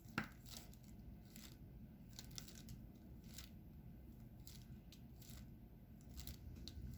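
Faint, irregular small clicks and ticks of diamond painting: a drill pen picking up resin drills and tapping them onto the canvas, with one sharper click just after the start.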